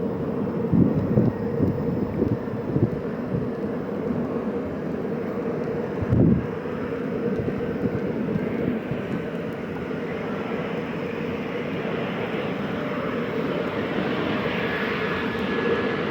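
Airliner engines running steadily with a held hum, a higher whine and hiss building over the last few seconds. Wind buffets the microphone a few times in the first seven seconds.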